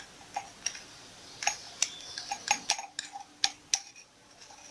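Metal teaspoon clinking against a glass jar while powder is spooned in: a string of about ten light, irregular clicks.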